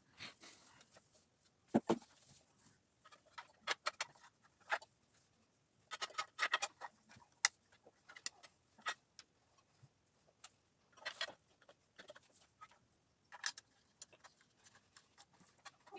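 Scattered clicks, taps and short rustles at uneven intervals, as parts and packaging are handled.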